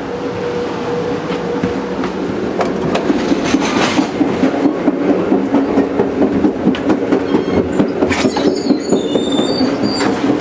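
Amtrak Lake Shore Limited passenger train heard from inside, running at speed: a steady rumble with a rapid rhythmic clatter of wheels over the rails that grows louder partway through. Scattered clanks and a few brief high squeals come near the end.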